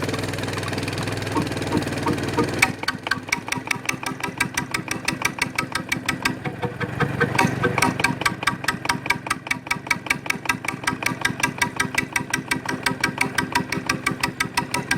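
Victor diesel engine driving a Keystone generator, running steadily. About three seconds in, the sound changes abruptly to sharp, evenly spaced knocks, roughly five to six a second.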